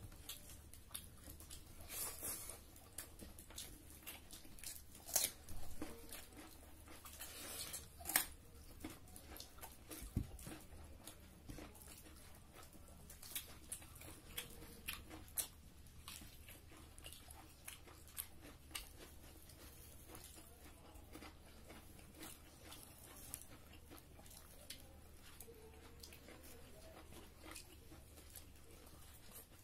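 Close-miked eating sounds: chewing and crunching of duck curry and rice eaten by hand, with irregular small clicks and smacks, the sharpest about 5 and 8 seconds in.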